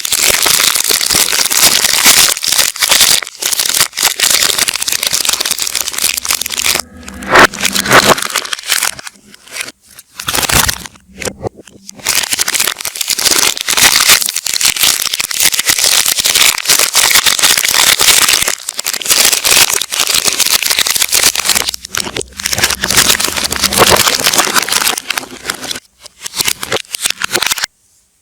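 Soap packaging wrappers crinkling and crackling as they are handled and torn open, played backwards, in long dense stretches broken by brief pauses.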